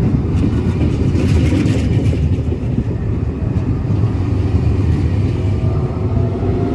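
Trenord double-deck electric train rolling along the platform close by: a steady rumble of wheels and running gear, with a brief hiss about a second in.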